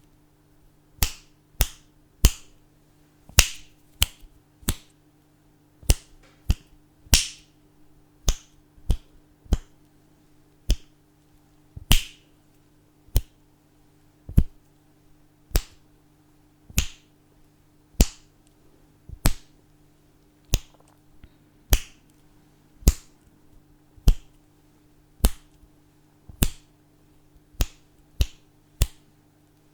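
Fingers snapping one after another at an uneven pace, roughly one to two snaps a second, each a sharp click, over a faint steady hum.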